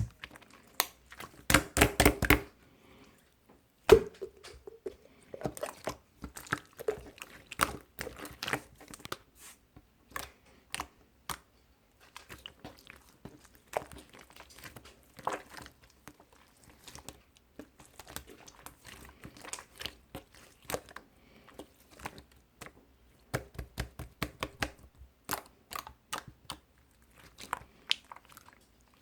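Irregular close-up crackling, crunching and clicking, with clusters of quick crackles and one sharp knock about four seconds in.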